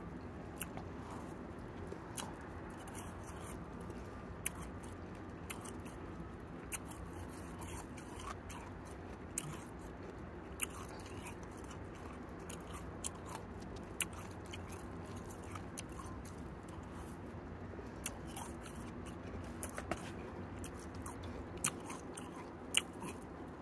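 Snow crunching as it is bitten and chewed: irregular sharp crunches, roughly one a second, over a steady low background noise.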